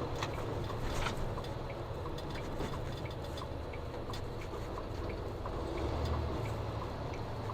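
Car driving on a snowy road, heard from inside the cabin: a steady low rumble of engine and tyres, with faint regular ticking two or three times a second.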